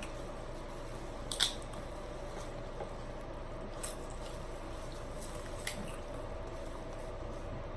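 Close, wet eating sounds from a seafood boil: crab and crawfish shells being cracked and picked apart, with three short sharp clicks, at about a second and a half, near four seconds and near six, over a steady faint hum.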